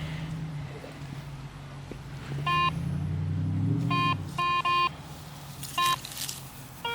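Garrett ACE 250 metal detector giving about five short, evenly pitched target beeps as the coil passes over a buried signal, after the wire has been dug out. A low vehicle hum runs underneath during the first few seconds.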